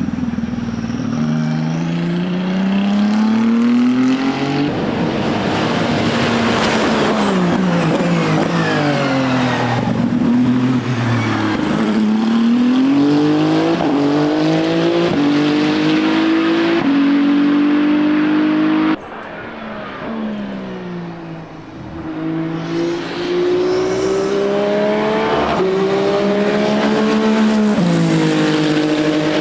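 Ferrari 499P hypercar's twin-turbo 120° V6 running hard on track, its note climbing in steps through upshifts and sliding down on braking and downshifts. About two-thirds of the way through the sound cuts suddenly to a quieter stretch, then the engine note builds back up and climbs again through the gears.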